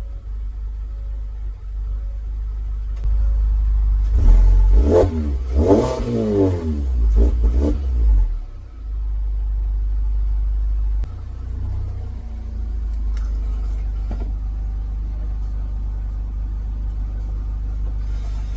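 Mazda 3's 2.5-litre four-cylinder through a freshly fitted Borla axle-back exhaust, revved several times with the pitch rising and falling about a third of the way in, then running steadily and dropping to a lower, even idle just past halfway.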